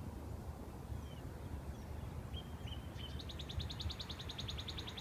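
A songbird singing a rapid, dry trill of about ten high notes a second, starting about three seconds in and lasting nearly three seconds, with a few faint short whistles just before it, over a low steady outdoor rumble.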